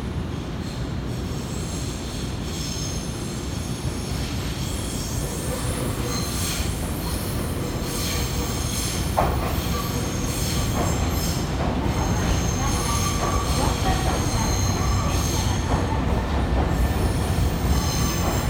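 Nankai electric train moving through the platform tracks, its wheels squealing in high tones over a steady rumble that grows louder, with a sharp click about halfway.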